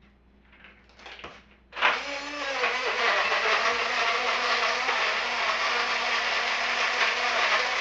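Rechargeable portable blender switching on about two seconds in and then running steadily, blending a thick frozen mix of ice, ice cream, Oreo pieces and almond milk; a few small clicks come before it starts.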